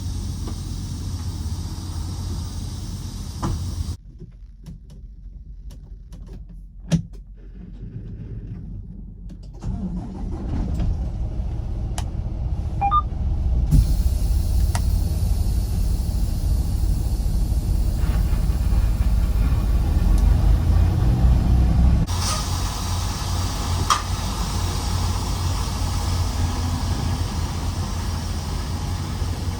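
Freightliner Cascadia semi truck's diesel engine running with a steady low rumble, with a few sharp metallic clanks and knocks from unhooking the trailer. The rumble drops away for several seconds about four seconds in, then returns louder.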